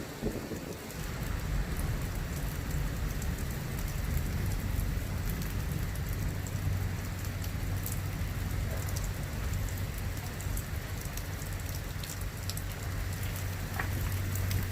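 Heavy thunderstorm rain pouring down steadily, with individual drops ticking sharply on a hard surface. A steady low rumble comes in underneath about a second and a half in.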